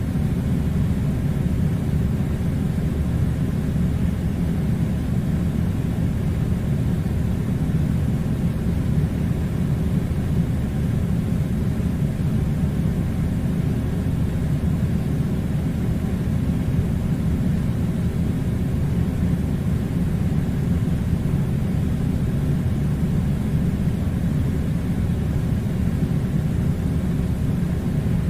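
Air conditioner running: a steady, unchanging low rumbling hum of air and fan noise.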